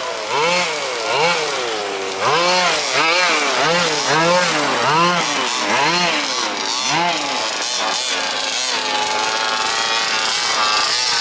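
Two-stroke petrol engine of a 1/5th-scale RC off-road buggy, revved up and down over and over, about every two-thirds of a second, then settling to a steadier note about eight seconds in.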